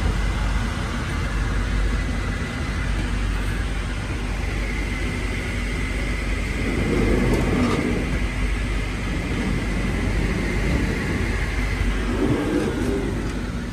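Steady low rumble and rushing noise of a moving passenger train heard from inside the coach, with a faint high steady whine running under it.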